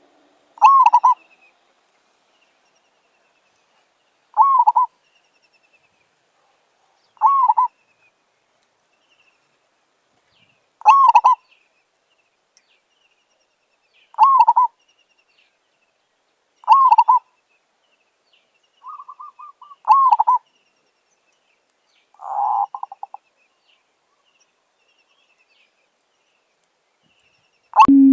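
Zebra dove calling: a short note repeated about every three seconds, seven times, with a brief trill and a rougher note between them. A lower-pitched call starts right at the end.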